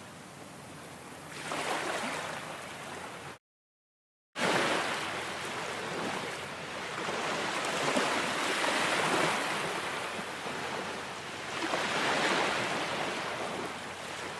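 Ocean waves washing in and drawing back, swelling in slow surges of hissing surf. The sound cuts out completely for about a second, a little over three seconds in, then returns louder.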